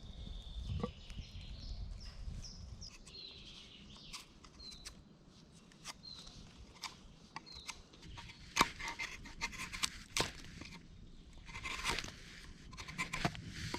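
Short high chirps repeating about once a second, typical of a small bird calling, through the first half. Sharp clicks and crunching, scraping sounds come in bunches from about halfway, loudest near the middle and again near the end.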